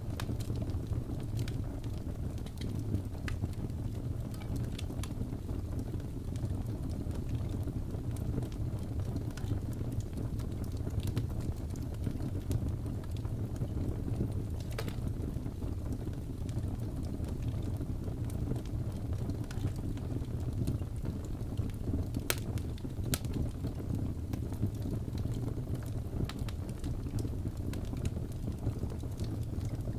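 Fireplace fire crackling: a steady low rumble with scattered sharp pops and snaps, a few of them louder than the rest.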